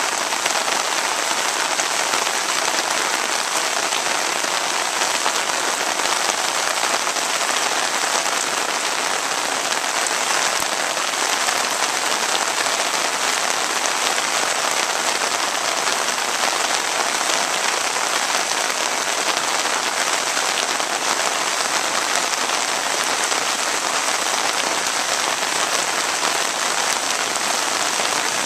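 Heavy rain falling steadily onto a flooded street and lawn: a dense, even hiss of drops striking standing water.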